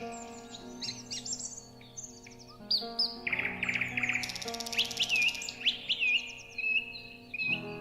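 Several songbirds chirping and trilling, with a run of short, rising whistles in the second half, over soft background music holding long, sustained chords.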